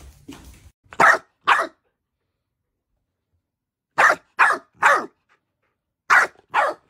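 Golden retriever puppy barking in short barks: two, then after a pause three, then two more.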